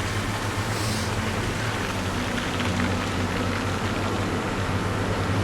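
Steady road traffic noise on a wet, snowy street: a low engine hum under an even hiss of tyres in slush.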